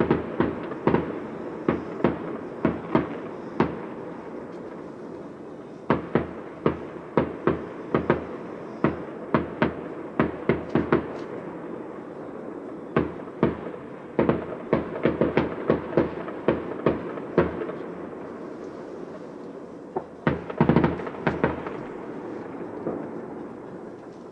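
Fireworks display: shells bursting with sharp bangs, often several a second, in runs broken by short lulls. A dense flurry of bangs comes about three seconds before the end, after which the bursts die away.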